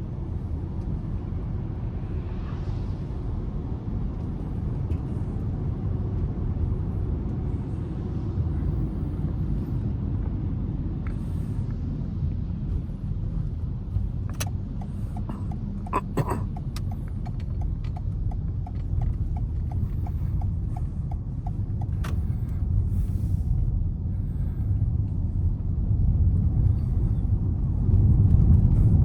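Car engine and road rumble while driving in city traffic, growing louder near the end. A few sharp clicks come just past the middle, followed by a run of even ticks lasting about four seconds.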